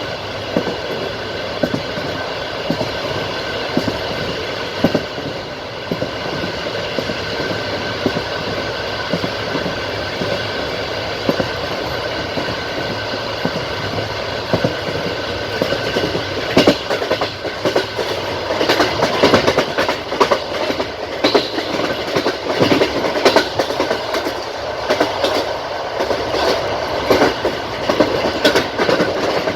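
Passenger train running along the track, its wheels clattering over the rail joints with a steady rumble underneath. The clicks come thicker and louder in the second half.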